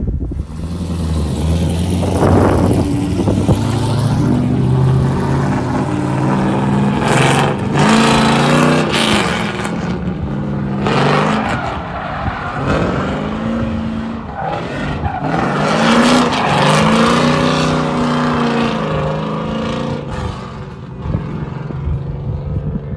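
LS1 5.7-litre V8 of a drift car, exhausting through a Y-pipe into a 3-inch exhaust, revving up and dropping back again and again as the car is driven hard, with bursts of rushing noise at the peaks.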